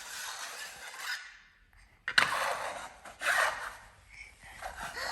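Plastic Lego Duplo bricks scraping and rattling as they are handled, in three short stretches that start suddenly.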